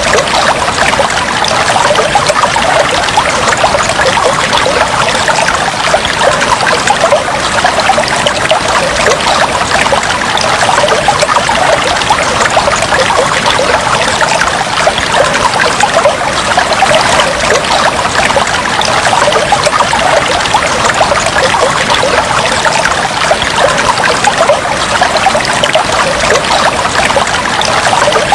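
Fish tank water trickling steadily, a dense, even splashing without pause.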